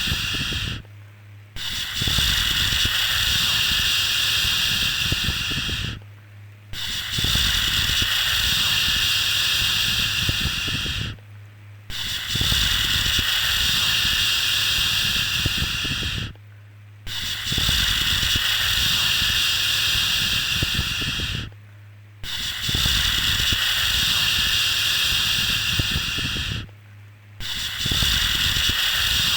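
Long drawn-out 'shhh' shushing sounds, a steady hiss, repeated in a loop. Each shush lasts about four and a half seconds and is separated from the next by a brief pause, about every five seconds.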